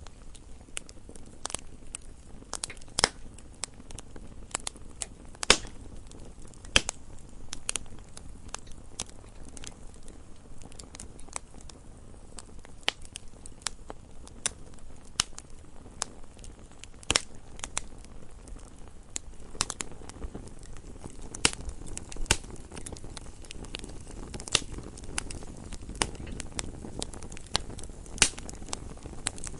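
Campfire burning, with irregular sharp crackles and pops of burning wood over a low steady rumble.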